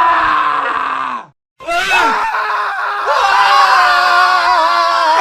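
Several men screaming at once, their voices overlapping. The screams cut off abruptly about a second in, there is a brief moment of silence, and then a fresh round of layered male screams starts up and carries on.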